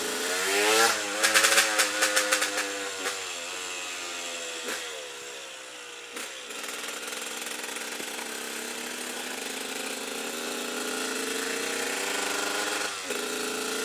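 KTM EXC 125 two-stroke enduro bike engine heard from on board while riding: the revs rise about a second in, then fall away, and the engine runs at light throttle with its pitch dipping around the middle and climbing slowly through the second half, with a brief break near the end.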